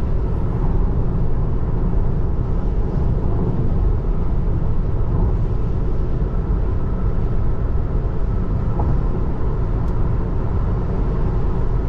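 Steady road and tyre noise inside the cabin of a Tesla Model 3 electric car driving along, with no engine sound, only a constant low rumble.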